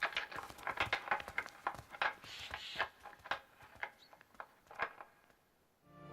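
Wild forest reindeer bulls sparring, their antlers clacking and knocking together in quick, irregular strikes that thin out and die away near the end.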